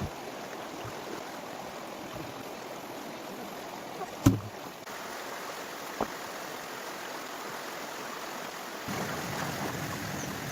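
Steady rushing of flowing water, with a sharp knock about four seconds in and a lighter knock about two seconds later.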